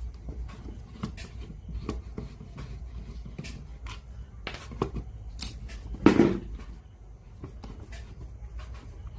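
Scattered small clicks and knocks of hands handling a radio cassette player's parts and tools during repair, with one louder knock about six seconds in, over a low steady hum.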